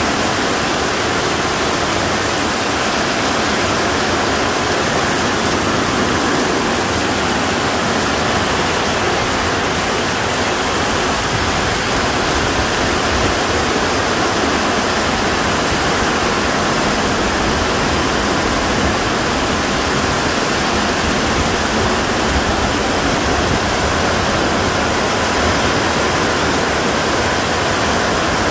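Heavy tropical downpour: rain falling on a sheet-metal patio roof and pouring off its edge in sheets onto the lawn. A loud, steady, dense hiss that holds unchanged throughout.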